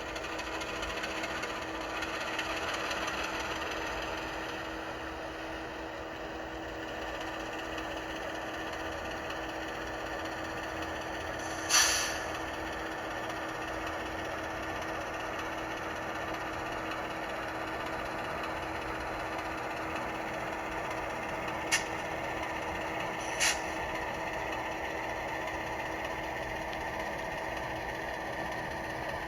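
Soundtraxx Tsunami2 sound decoder in an HO scale model diesel locomotive playing the prime mover running steadily through its small speaker. Three short, crisp air-release bursts cut through, one about twelve seconds in and two close together later on.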